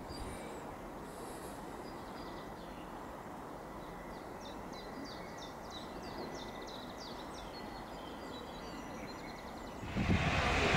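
Steady outdoor background noise with a small bird singing a run of short, quick chirps in the middle. About ten seconds in, a much louder low rumbling noise comes in suddenly.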